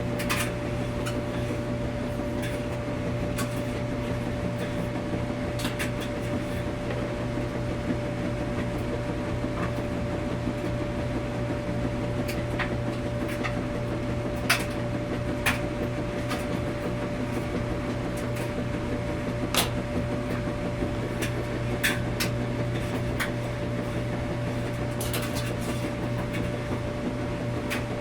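Washing machine running steadily with a low hum and a steady higher tone, with scattered light clicks every few seconds.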